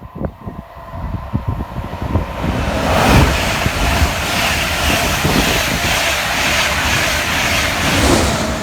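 A train passing at speed: after a few low thumps, a loud rushing noise of wheels and air builds within about half a second and holds, easing off near the end.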